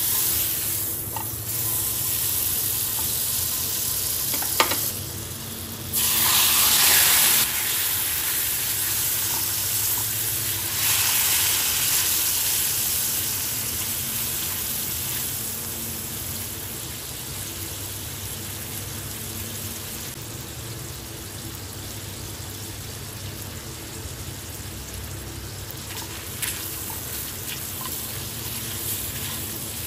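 Food frying in a pan, sizzling steadily. It flares louder for a second or so about six seconds in and again about eleven seconds in, then slowly dies down. A single sharp knock, likely a utensil against the pan, comes about four and a half seconds in.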